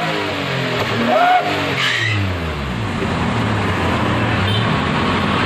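Vehicle engine revved through an aftermarket 'wolf/dog sound' exhaust: a brief howl-like whistle that rises and falls about a second in, then the revs drop away and the engine settles to a steady idle.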